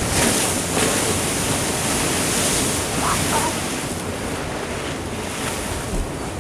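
Ocean waves breaking and washing against a sea wall, a loud steady rushing hiss that is strongest in the first few seconds, with wind buffeting the microphone.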